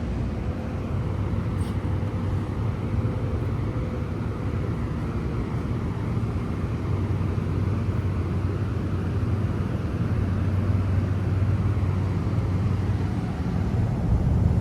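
A train running with a steady low hum, growing a little louder about ten seconds in.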